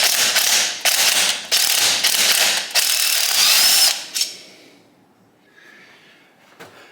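A tool ratcheting rapidly as a stiff bolt is backed out of a motorcycle engine case, in several short runs with brief pauses, stopping about four seconds in.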